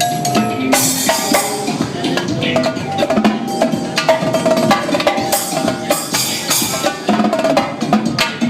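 Electronic dance music with live drums played along: quick stick strokes on drums and rims over a repeating synth melody and beat.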